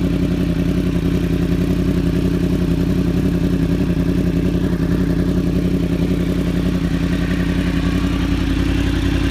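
2015 Yamaha YZF-R1's crossplane inline-four engine idling steadily through a Graves full exhaust system.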